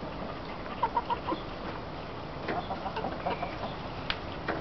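Chickens clucking in short runs of quick notes, twice, with a sharp click near the end.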